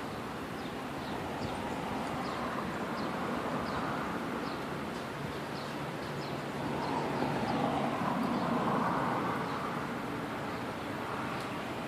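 Outdoor ambience: a steady rumbling noise, like traffic, that swells between about seven and nine seconds in, with short high chirps, like birds, repeating throughout.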